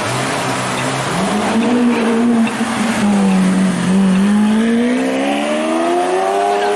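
Lamborghini supercar engine revving as the car accelerates. Its pitch rises about a second in, dips briefly, then climbs steadily through the last few seconds.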